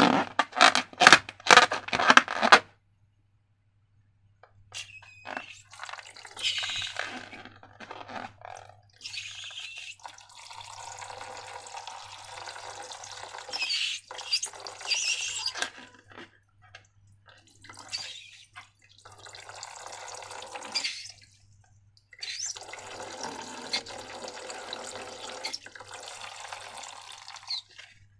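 A quick run of sharp clicks, then liquid pouring or running in four long stretches with short gaps between them.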